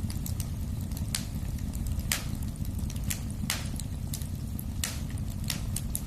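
Wood fire in a fireplace crackling: sharp pops about once a second with fainter crackles between, over a steady low rumble of burning.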